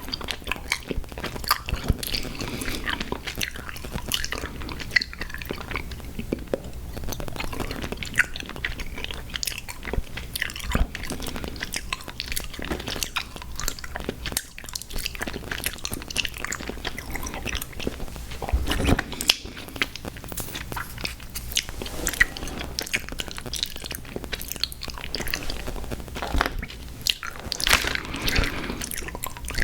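Close-miked chewing and biting of sour gummy worms cereal: a steady run of small crunches and clicks.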